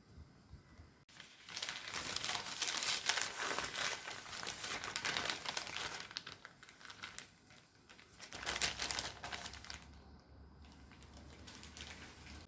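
Crinkling and rustling handling noise in two spells: a long one starting about a second in, and a shorter one past the middle, with a few crackles near the end.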